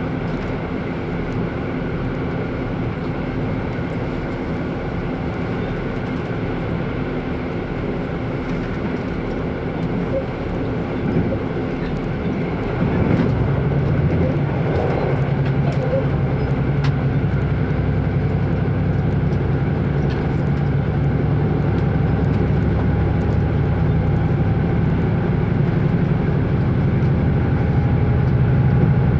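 Running sound of a Wide View Hida limited express diesel railcar: steady rail and wheel noise with an engine note underneath. About halfway through, the engine note grows louder and stays that way.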